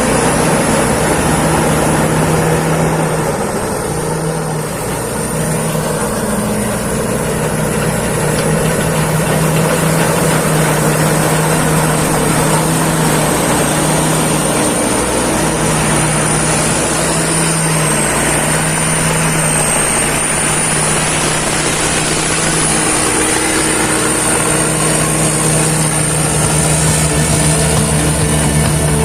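Rice combine harvester running steadily, its engine humming with a high thin whine above that wavers slightly in pitch.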